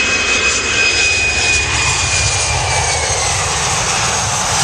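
Boeing 737-400 airliner's CFM56-3 turbofan engines, loud as it lands: a steady rushing noise and low rumble, with a high whine that slowly drops in pitch after about two seconds.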